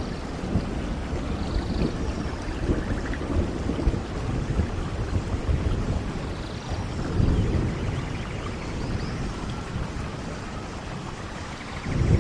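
Steady rain with rolling thunder; a louder low rumble swells about seven seconds in and again near the end.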